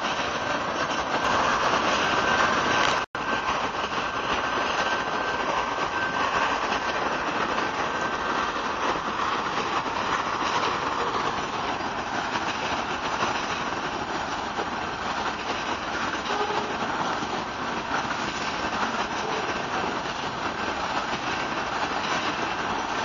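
Freight train of autorack cars rolling past on the next track: a steady rumble and rattle of wheels on rail. A thin, steady high whine runs through the first half, and the sound cuts out for an instant about three seconds in.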